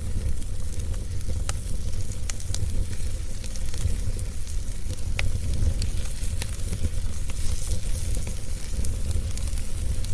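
Fire in a fireplace crackling, with scattered sharp pops and clicks over a steady low rumble and hiss.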